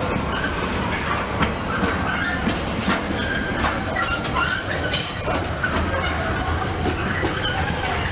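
Train wheels running over the track, squealing in short high notes and clicking over rail joints and points, with a sharper clack about five seconds in.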